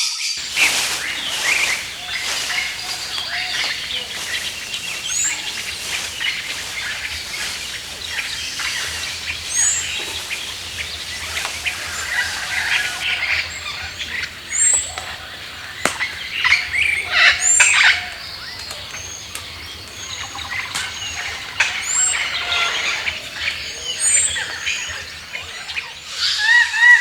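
Several wild birds chirping and calling together in a natural outdoor soundscape. Short, high, hooked call notes repeat every few seconds, mostly in the second half.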